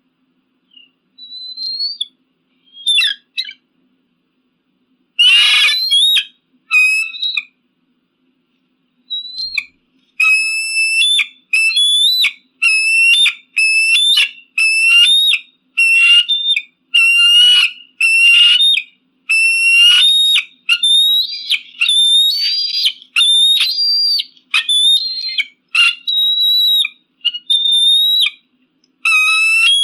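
Eagle calling with high whistled notes: a few scattered calls and one harsher, noisier call about five seconds in, then from about ten seconds a fast run of repeated whistled notes, roughly two a second.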